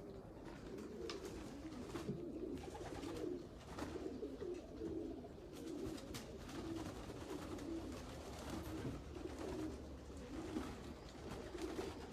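Racing pigeons cooing over one another inside a loft, a continual low warbling chorus, with scattered light clicks and taps.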